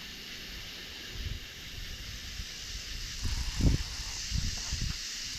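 Steady outdoor hiss with wind buffeting the microphone in low rumbles, strongest a little after halfway through.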